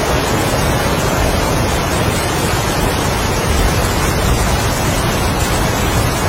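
Heavy rain and strong wind: a dense, steady rush at an even level, with no separate drops, gusts or thunder standing out.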